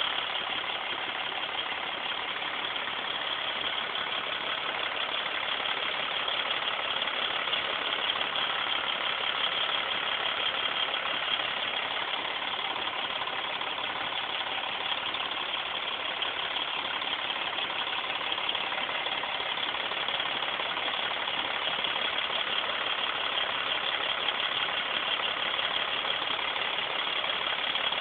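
Mercedes-Benz inline six-cylinder diesel engine of a Freightliner truck idling steadily, with no change in speed.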